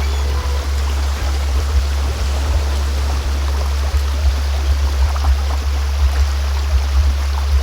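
A steady low-pitched hum, the loudest sound, layered over a recording of a flowing stream: a sound-healing frequency track.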